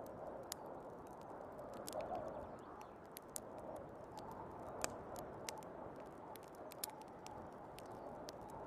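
Wood fire in a fireplace crackling, with scattered sharp pops, over the steady rushing wind of a snowstorm that gently swells.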